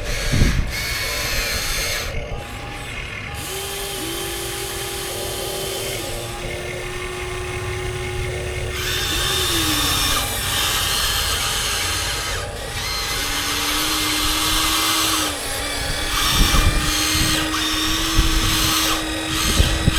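Electric motors and plastic gearboxes of 1:14-scale Huina RC construction models whirring like a drill. A steady hum shifts and glides in pitch in two long stretches as the machines move, and there are a few low thumps in the last few seconds.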